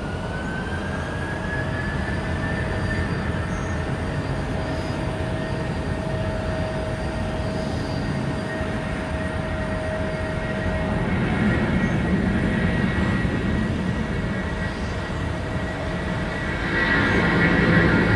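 Jet airliner engines running, with a whine that rises in pitch over the first few seconds and then holds steady over a broad rumble. The sound grows louder near the end.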